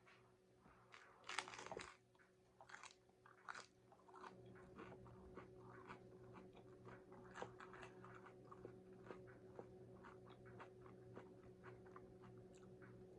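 A person biting into a crunchy taco, with a few louder crunches in the first few seconds, then steady chewing with many small crackling clicks.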